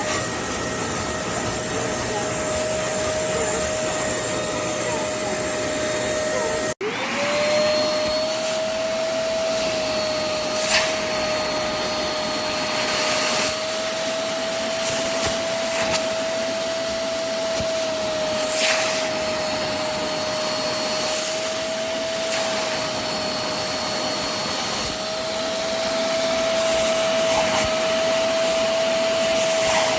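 Hoover CleanSlate Plus portable spot cleaner's suction motor running steadily, with a few brief louder hisses. About seven seconds in the sound drops out for an instant, then the motor pitch climbs quickly back up.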